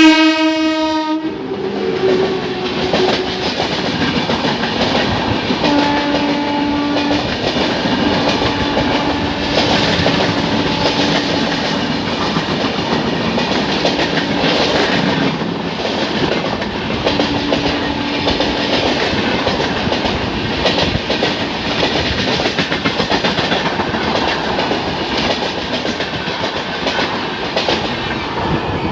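Express passenger train's horn sounds for about a second, then the train runs on with wheels clattering over the rail joints under a continuous rushing noise.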